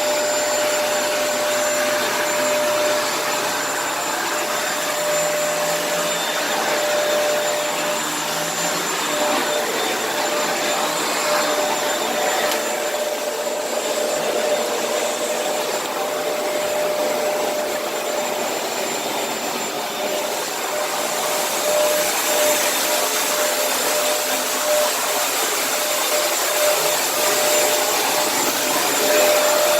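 Kenmore vacuum cleaner running steadily while vacuuming: an even rush of air with a constant motor whine, the hiss turning brighter about two-thirds of the way through.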